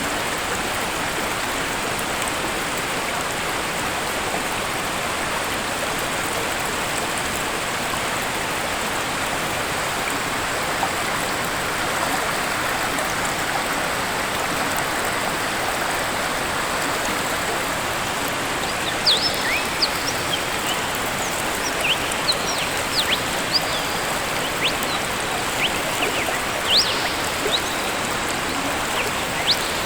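Waterfall water rushing in a steady, even hiss. From about two-thirds of the way in, short high bird chirps sound repeatedly over it.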